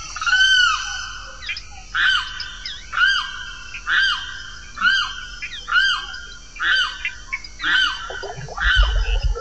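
A bird calling over and over, about once a second, each call a short whistle that rises and falls, with a fainter overtone above it. A low rumble comes in near the end.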